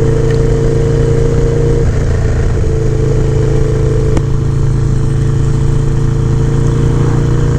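Harley-Davidson Low Rider S V-twin with an aftermarket exhaust, running steadily while riding. Its pitch wavers briefly about two seconds in, then settles, with a single faint click a couple of seconds later.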